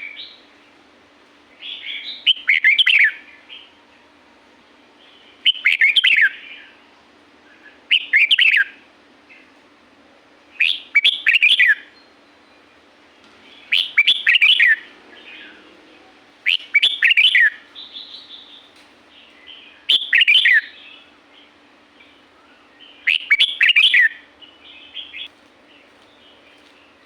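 Red-whiskered bulbul singing: short warbled phrases of about a second each, repeated about every three seconds, eight times.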